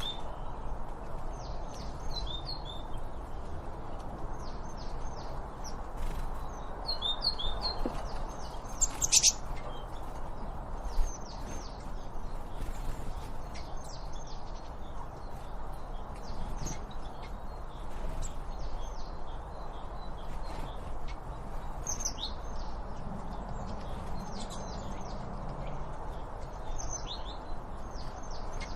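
Small songbirds chirping in short quick clusters of high notes every second or two, with one louder sharp call about nine seconds in, over a steady background hiss.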